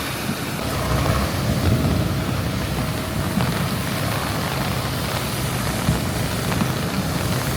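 Rain falling amid road traffic, with a vehicle engine running steadily underneath.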